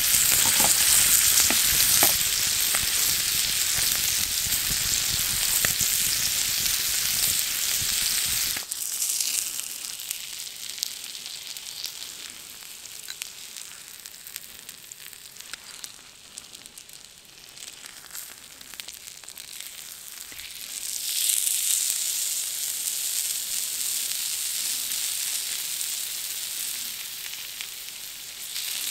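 Food sizzling as it fries in a pan, with scattered pops. About a third of the way in the sizzle drops abruptly to a quieter hiss, and it swells loud again about two-thirds through.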